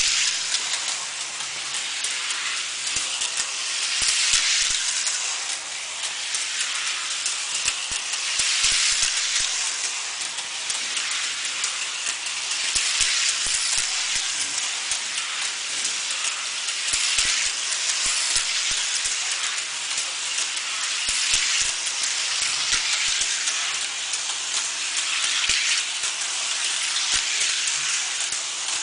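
Small electric motors of toy motorcycles on a slot-car racing track, whirring with a steady hiss that swells about every four seconds as they come round, with scattered light clicks from the track.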